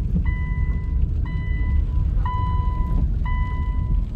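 A Subaru Outback's in-cabin warning chime beeping about once a second, each beep a clear tone held for most of a second, over the low rumble of the car.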